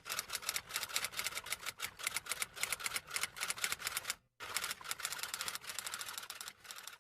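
Typewriter typing sound effect: rapid, even key clacks in one run, a brief break about four seconds in, then a second run that fades near the end.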